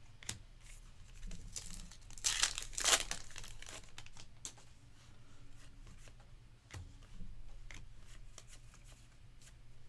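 A baseball card pack wrapper torn open, with a short loud rip and crinkle about two to three seconds in. Lighter clicks and rustles of cards being handled are heard around it.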